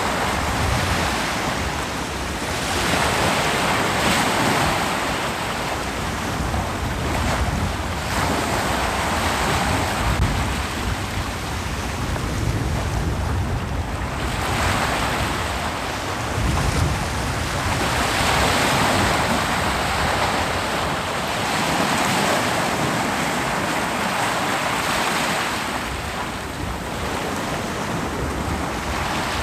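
Ocean surf breaking and washing up a beach, rising and falling in surges every few seconds.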